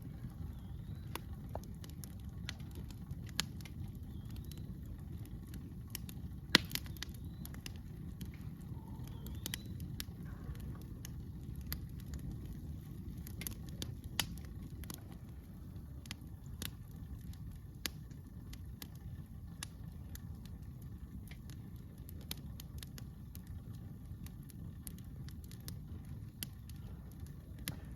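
Wood campfire crackling, with irregular sharp pops and one louder pop about six and a half seconds in, over a steady low rumble.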